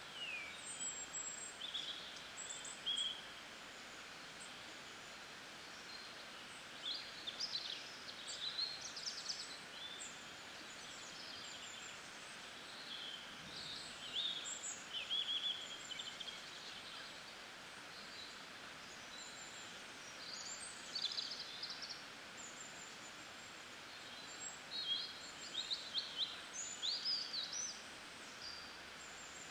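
Birds chirping and trilling in short clusters every few seconds, over a steady background hiss.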